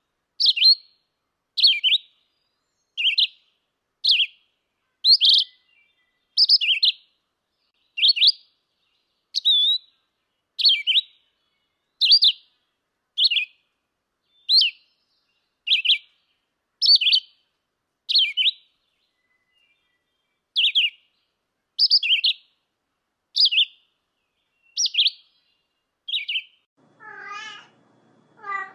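A bird's short, high chirp repeated very evenly, about once every second and a half, with one brief pause partway through. Near the end a cat begins meowing.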